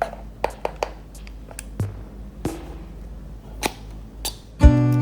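Scattered sharp taps and clicks, like small objects being handled and set down, over a faint steady low hum. Near the end, loud strummed guitar music starts abruptly.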